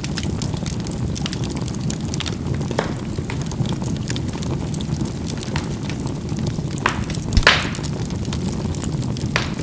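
Charcoal burning in a fireplace: a steady low rumble of the fire with scattered crackles and snapping pops, one louder pop about seven and a half seconds in.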